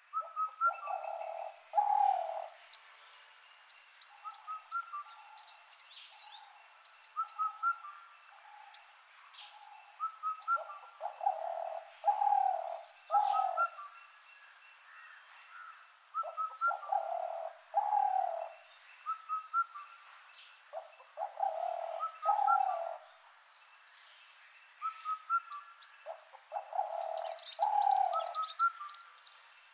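Several birds calling: a mid-pitched call of two or three notes repeated in groups every few seconds, over a steady run of high chirps and twitters.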